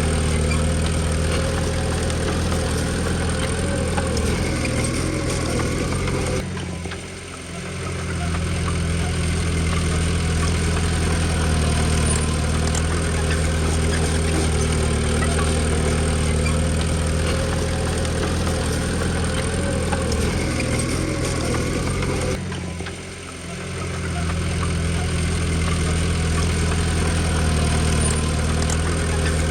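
Komatsu D20P bulldozer's diesel engine running steadily. The sound drops away suddenly twice, about seven seconds in and again about twenty-three seconds in, and swells back each time.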